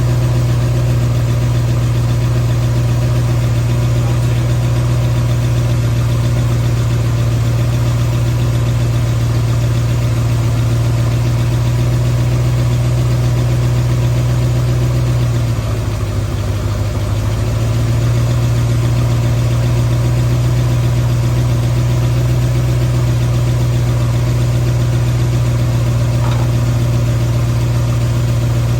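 Ford 351 Windsor V8 running steadily at idle. About halfway through the idle briefly sags, dropping in pitch and level, then picks back up to its steady speed.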